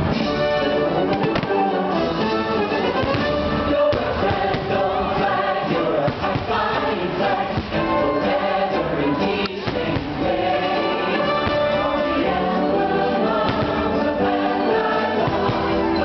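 A choir singing with orchestral backing, a fireworks show's soundtrack.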